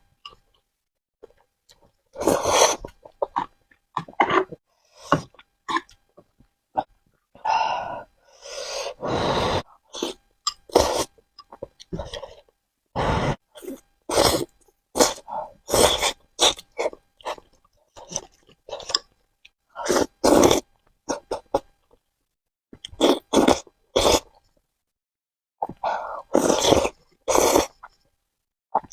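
Close-miked eating sounds: bursts of wet chewing and mouth noise at irregular intervals, with short pauses between mouthfuls.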